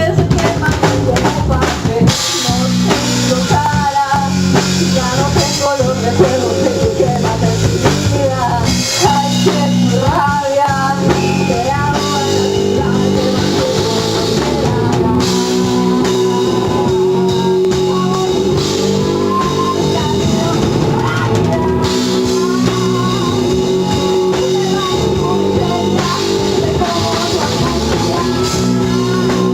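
Rock band playing live: drum kit and guitar, with a wavering melodic line over the first half and a held note after that.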